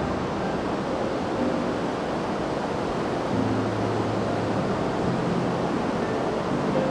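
Ocean surf breaking on a beach: a steady, even rush of noise.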